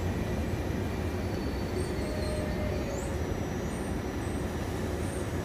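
Trenitalia Vivalto double-deck passenger train beside the platform, giving a steady low rumble. Faint thin tones are heard near the middle.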